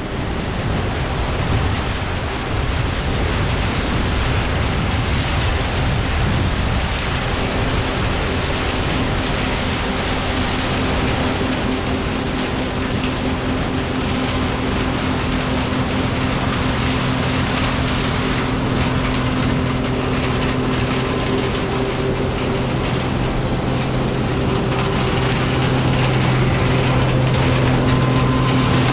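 John Deere 9560 combine running steadily while harvesting corn: a dense mechanical din, with a steady low drone that settles in about seven seconds in and grows slightly louder near the end.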